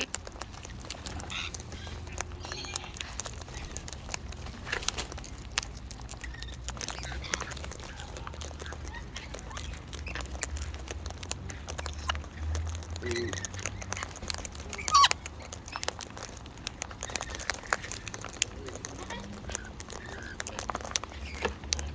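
Wild parrots feeding close to the microphone: scattered clicks and scratches from beaks and claws, with a few short chirps about halfway through, over a steady low rumble.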